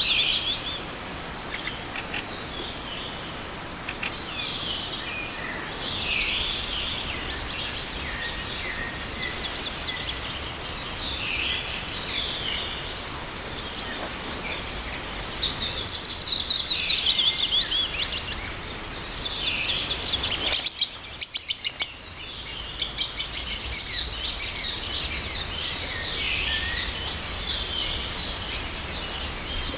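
Several songbirds singing and calling in a spring forest, overlapping phrases and quick trills, with a louder trilling run about half way through, over a steady rush of a small forest river. The sound breaks off briefly with a few clicks about two-thirds of the way through.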